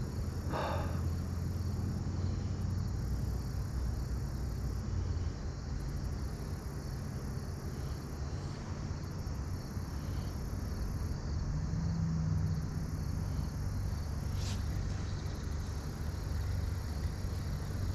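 Insects trilling steadily in the background, their high buzz coming and going in stretches of a second or two, over a low steady hum.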